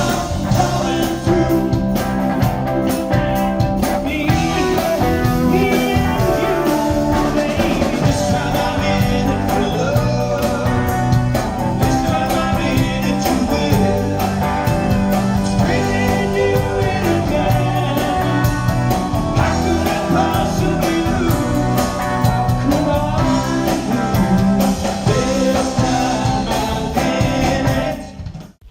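A band playing a rock song, with the music cutting off abruptly near the end.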